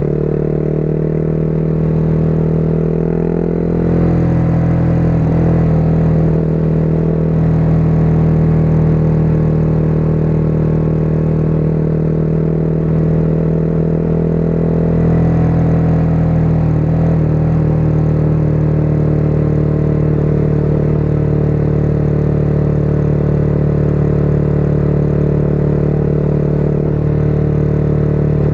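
Motorcycle engine running at a steady, moderate speed while riding, its pitch shifting slightly about four seconds in and again around fifteen to seventeen seconds.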